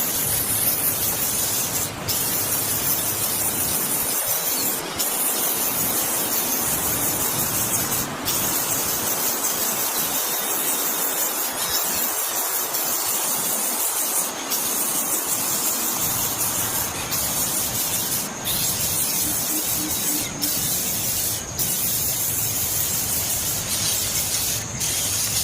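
Loud steady hiss, broken by short dropouts every second or two.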